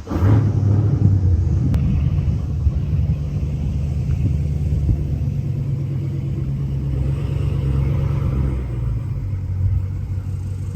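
A motor vehicle's engine running with a steady low rumble, which comes in suddenly at the start.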